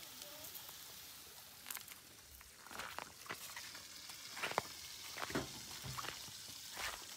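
Fish frying faintly in a pan, with a light hiss and a few scattered clinks and scrapes of cooking utensils.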